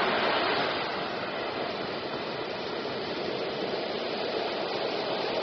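Steady, even rushing of running water, with no distinct splashes or other events; it eases slightly in level about a second in.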